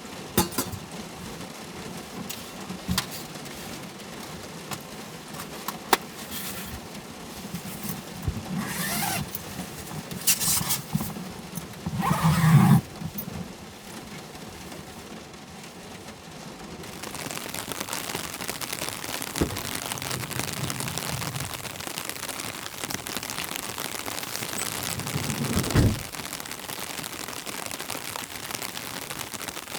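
Scattered clicks, knocks and a few short rustling bursts, then steady rain from a little over halfway. Near the end a low sound swells and cuts off abruptly.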